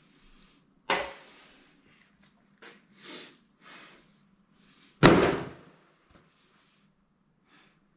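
Knocks and clunks of a Ford Focus ST engine's cylinder head being lifted off the block and set down: a sharp knock about a second in, smaller scrapes and taps, then a louder, heavier clunk about five seconds in.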